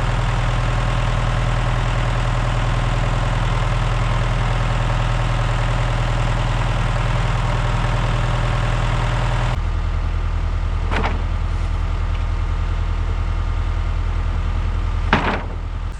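An engine idling steadily; about two-thirds of the way through its tone drops abruptly, and two sharp knocks follow, the second near the end and the louder.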